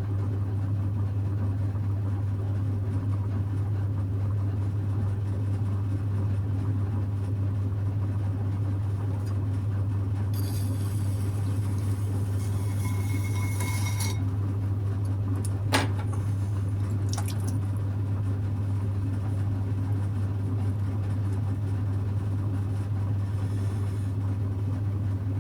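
Electric potter's wheel motor humming steadily at a low pitch. A brief hiss comes a little before halfway, and a sharp click about two-thirds of the way through.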